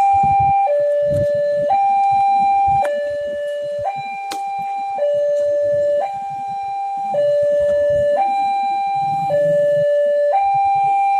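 Railway level-crossing warning alarm sounding a steady electronic two-tone signal, a high note and a lower note alternating about once a second. It warns that a KRL commuter train is approaching. Low traffic rumble runs underneath, with one sharp click about four seconds in.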